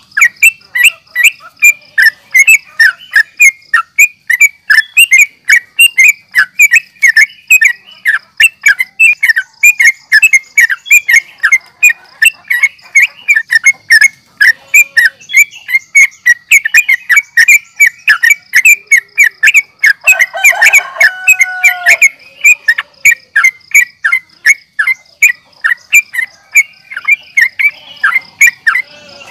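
Yellow-vented bulbul (trucukan) calling in a fast, agitated run of short sharp chirps, about three to four a second, in the excited challenging style used as a lure to provoke other males. A lower call with gliding notes breaks in briefly about two-thirds of the way through, over a faint steady high whine.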